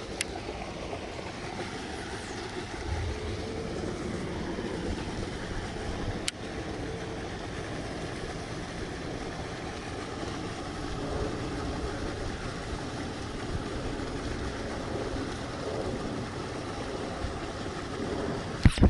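Steady low rumbling outdoor background noise, with a single sharp click about six seconds in.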